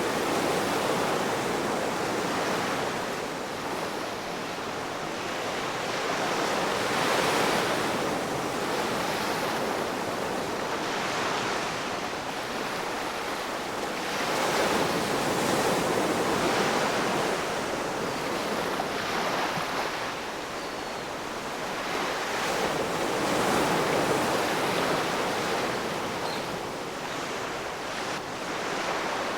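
Ocean waves breaking and washing on the shore, a continuous rush that swells and eases every few seconds.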